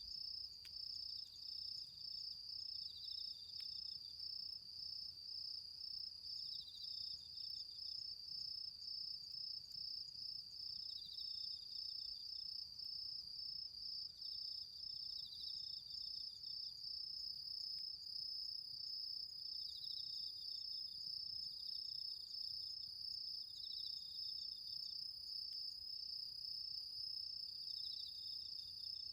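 Autumn insects singing: one cricket-like insect trills without a break on a high pulsing note, while another answers with short chirping phrases a little lower every few seconds. A few faint ticks come now and then.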